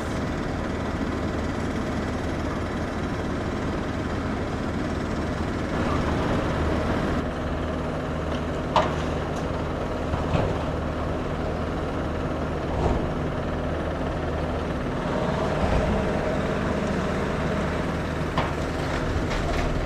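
Diesel engine of a demolition excavator running steadily, with a few sharp knocks scattered through as the building is pulled down.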